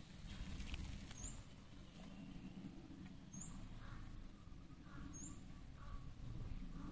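A bird's short, high chirp, repeated about every two seconds, faint over a low steady background noise.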